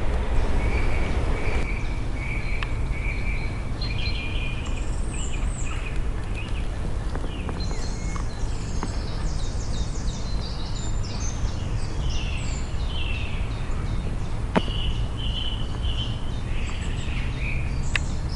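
Several songbirds chirping and singing on and off, with short trills and calls, over a steady low rumble.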